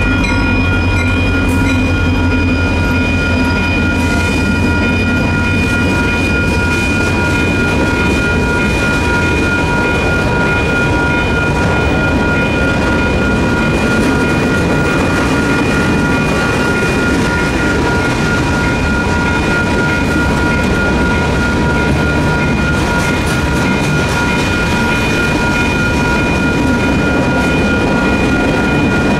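Diesel locomotives of a freight train passing a grade crossing, their low engine sound fading after the first few seconds. The steady rumble and clatter of freight cars rolling over the rails follows. Over it all, the crossing's WCH Type 2 electronic bell keeps ringing.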